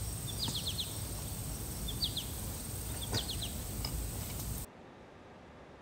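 Woodland ambience: a small bird repeats short runs of three or four quick high chirps about every second and a half, over a steady high-pitched whine. About three-quarters of the way through it cuts off abruptly to quiet room tone.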